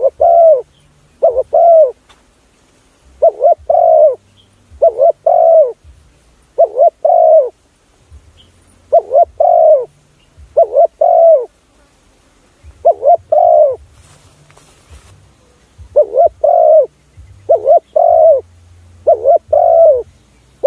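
Spotted dove cooing over and over, each phrase a quick run of two or three arched coo notes, repeated every second or two: a call recording used to lure wild spotted doves.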